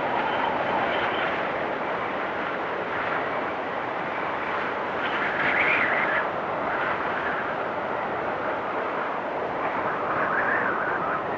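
Blizzard wind blowing steadily through trees, swelling into stronger gusts about halfway through and again near the end.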